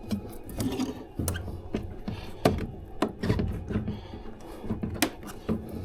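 Irregular clicks, knocks and rattles of hands handling tools and metal parts, a few sharp knocks standing out, over a low rumble.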